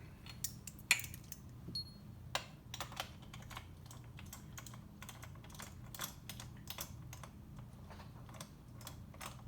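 Irregular light clicks and taps of small metal parts being handled, such as bolts and tools being picked up and set down while bolts are readied for thread-locker, over a steady low hum.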